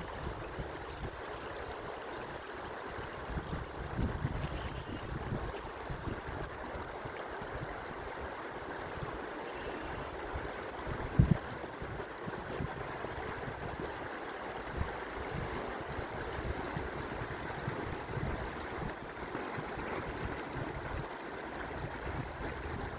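Steady rushing noise with gusts of wind buffeting the microphone, and one sharp thump about eleven seconds in.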